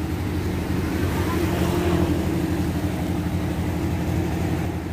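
A motor vehicle's engine running steadily, a continuous low drone.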